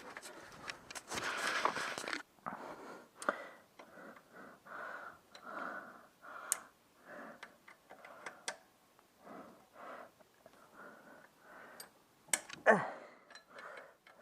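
Hand tools working the alternator tensioner on a car engine: scattered sharp metal clicks and knocks, over a person's heavy breathing from the effort. About twelve and a half seconds in there is a loud knock with a short falling squeak.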